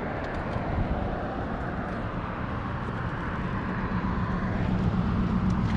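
Motorcycle engine running steadily under way, mixed with wind and road noise, getting slightly louder near the end.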